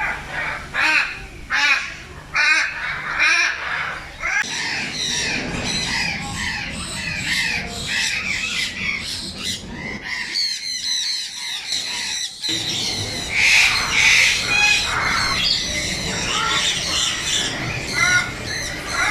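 A flock of captive birds calling, many short shrill calls repeating and overlapping.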